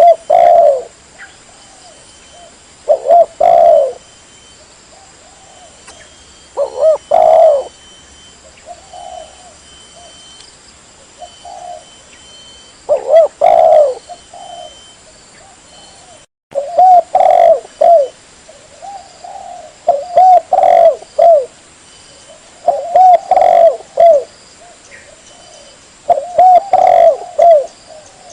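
Spotted dove (tekukur) cooing: short phrases of a few low, bending coos repeated every few seconds, played back as a lure call for trapping.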